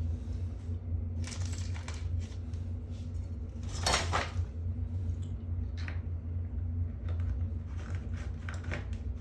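Small metal hardware clinking and scraping as it is handled, with the loudest scrape about four seconds in, over a steady low hum.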